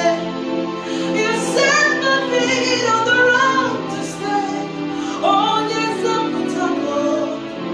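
A woman singing a slow worship song with gliding, held notes over sustained instrumental accompaniment.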